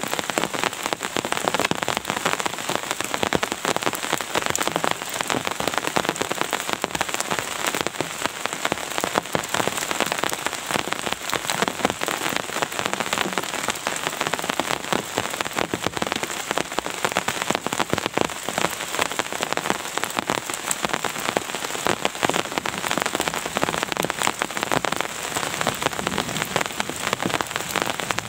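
Steady rain falling on a surface: a dense, even rush of countless small drop hits, holding constant throughout.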